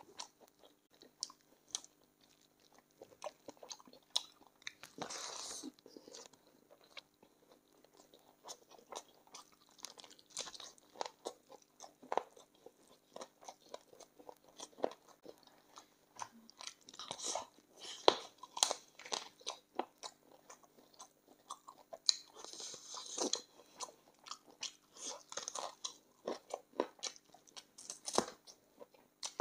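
A person chewing and biting chicken feet in a spicy gravy: many irregular sharp clicks and crunches as the bones and cartilage are bitten. There are two longer, noisier stretches, about five seconds in and again about three quarters of the way through.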